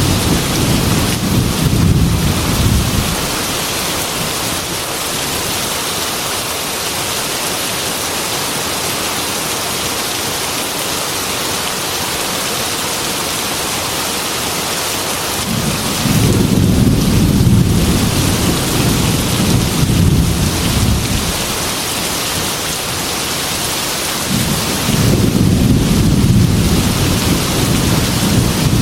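Heavy rain falling steadily, with thunder rumbling three times: a roll fading out in the first few seconds, a longer one a little past the middle, and another building near the end.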